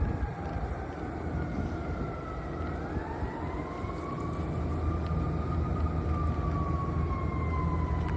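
Emergency-vehicle siren wailing in one slow glide: falling at first, rising again from about three seconds in, then easing down near the end, over a steady low rumble.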